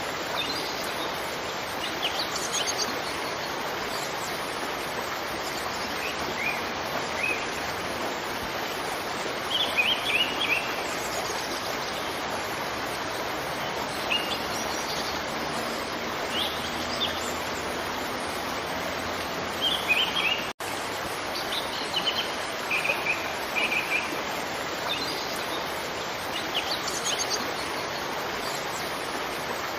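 Steady rush of a waterfall, with small birds chirping in short clusters every few seconds. The sound cuts out for an instant about two-thirds of the way through.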